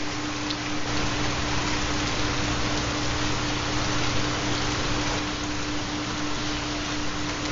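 Steady recorded rain, an even hiss, with a continuous low steady tone under it: a 4 Hz theta binaural beat.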